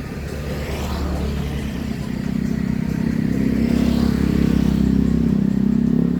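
A motor vehicle engine passing close by, getting steadily louder over the few seconds.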